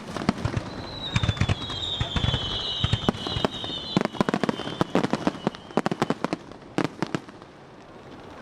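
Aerial fireworks bursting in quick succession: a dense run of sharp cracks and bangs, with a high whistle gliding slowly down in pitch for about three seconds near the start.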